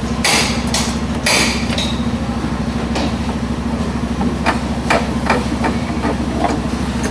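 A series of sharp knocks, like hammer strikes on metal, about seven of them at irregular half-second gaps in the second half. A few short hissing bursts come in the first two seconds, over a steady low machine hum of a vehicle workshop.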